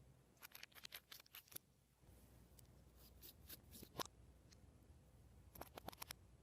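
Slime being worked and mixed, making small, sharp clicks and crackles in three short runs, faint overall.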